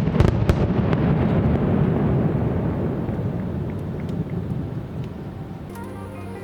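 Aerial fireworks bursting: a sharp bang at the start and a few more cracks within the first second, then a deep rolling rumble that fades over several seconds.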